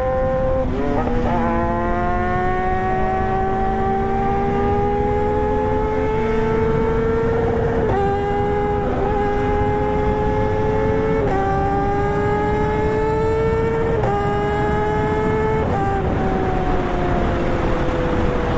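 Motorcycle engine pulling through the gears: its pitch climbs steadily and drops a little at each of several upshifts, then falls as the bike slows near the end, over a steady rush of wind.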